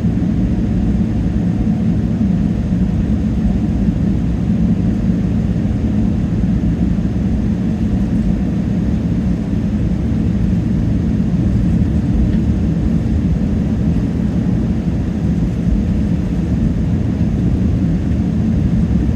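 Steady low rumble of a Boeing 777-300ER heard from inside the cabin: GE90 engines and airflow, even throughout with no changes.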